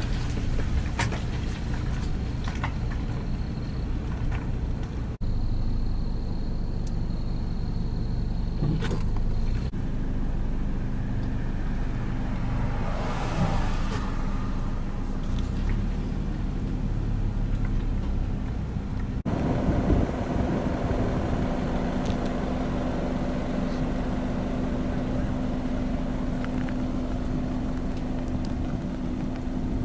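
Steady low hum of idling motor-vehicle engines, changing abruptly at several cuts; from about two-thirds in, a steadier droning hum takes over.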